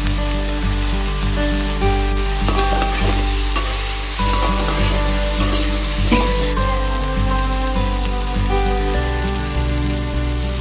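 Silkworm pupae sizzling as they are stir-fried in a wok, with a metal spatula scraping and clicking against the pan, mostly in the middle stretch. Background music plays under it.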